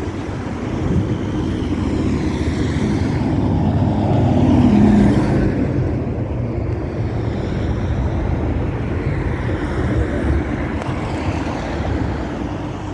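Motor vehicle engine and road noise, swelling to a peak about five seconds in and then easing off.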